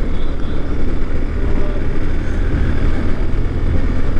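Yamaha Fazer motorcycle riding at highway speed: steady engine noise under a loud, even rush of wind on the microphone.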